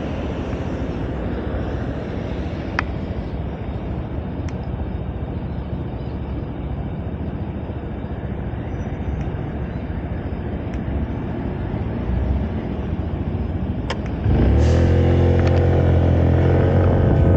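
Riding a Moda Moca 110 scooter on the road: a steady rush of wind and road noise with an engine hum underneath. About fourteen seconds in, a louder, deep, steady engine drone comes in abruptly and carries on.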